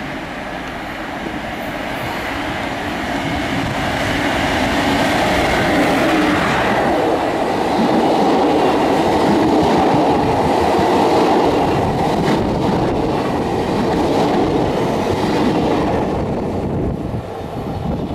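SNCF BB 27300 (Prima) electric locomotive and its double-deck suburban coaches passing close by: a steady rumble of wheels on rail that swells to its loudest about halfway through, then eases as the train moves off. A few sharp wheel clicks come a little after the middle.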